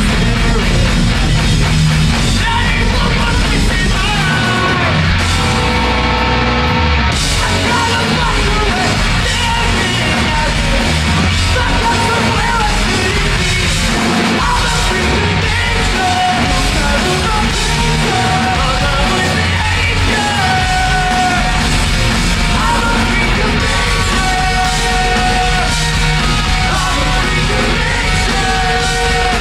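Live punk rock band playing loud, with distorted guitars, bass and drums under shouted and sung vocals.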